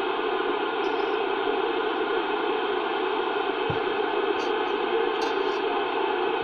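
CB radio receiver hiss on the skip band between transmissions: steady, even static with no one on the air, with one short low thump near the middle.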